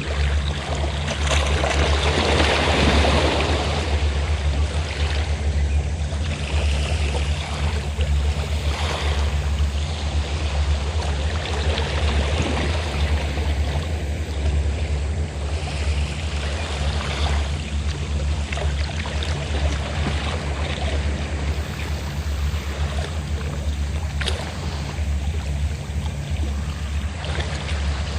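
Sea waves washing in and drawing back in repeated surges, the biggest about two to four seconds in, over the steady low hum of a fishing boat's engine.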